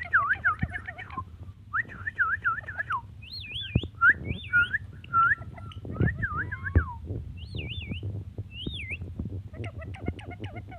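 Ringneck parrot whistling: a string of quick warbling whistles that swoop up and down in pitch, some phrases higher and some lower, with short gaps between them and a bit of chattering near the end.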